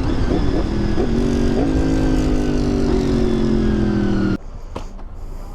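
Motorcycle engine running under way over a rumble of wind and road noise, its pitch slowly falling as it eases off. The sound drops off suddenly a little past four seconds in.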